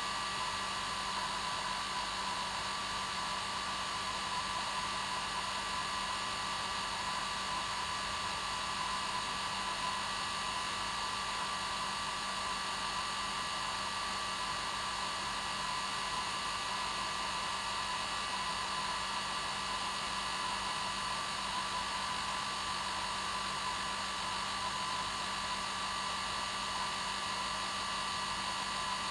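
Hair dryer running steadily: a constant blowing hiss with a steady whine from its motor and fan, unchanging throughout.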